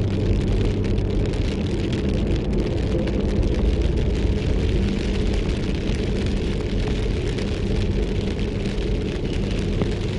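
Steady rain falling, with many fine drop ticks, over a continuous low rumble.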